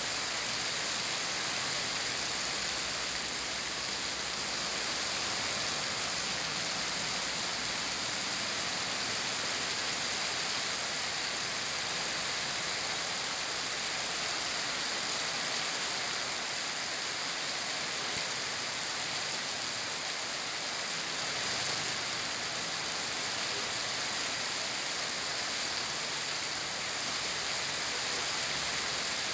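Heavy rain pouring steadily onto a flooded street, a continuous even hiss.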